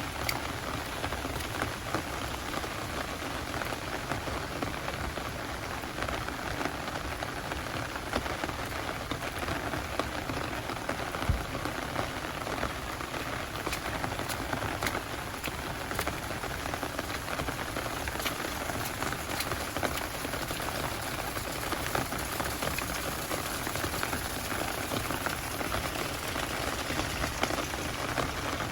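Heavy rain falling steadily, a dense even wash of drops with many sharp close drop hits scattered through it.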